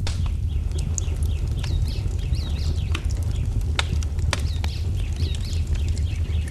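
Wood fire crackling, with sharp pops every second or so over a steady low rumble, mixed with small birds chirping in quick repeated swooping notes.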